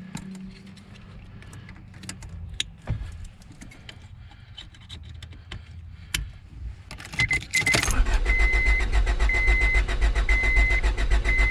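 1997 Honda Odyssey's four-cylinder engine cranking on the starter without catching: a loud, even, fast pulsing that starts about seven seconds in, after a few light clicks. A high dashboard chime beeps about once a second over it. With a spare fuel pump relay fitted and the van still not starting, the fault points to the fuel pump.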